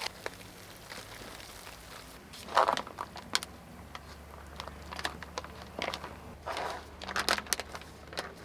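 Handling noises while preparing a camp breakfast: a food pouch crinkling and small knocks and clatter, loudest about two and a half seconds in, over a steady low hum.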